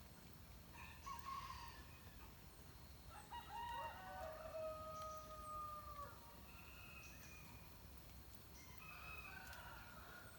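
A rooster crowing once, faint, in one long drawn-out crow from about three to six seconds in that drops in pitch at the end. Other birds give short calls before and after it.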